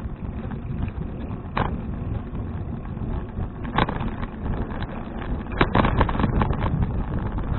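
Wind buffeting an action camera's microphone on a moving bicycle, a steady low rumble, broken by sharp knocks: one about a second and a half in, another near the middle, and a quick cluster near the end.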